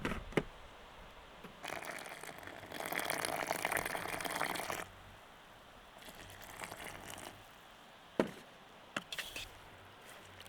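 A wet, splashing noise lasting about three seconds, with a few sharp knocks near the start and again near the end.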